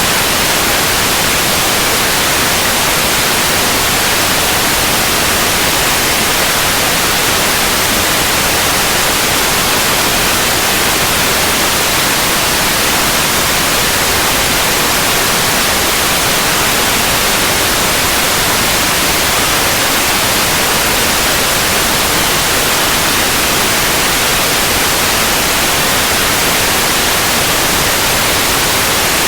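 Steady synthetic white noise: an even, unbroken hiss across the whole range.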